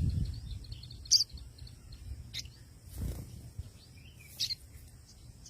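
A small bird giving short, high-pitched chirps, three single notes a second or two apart, over a faint low rumble.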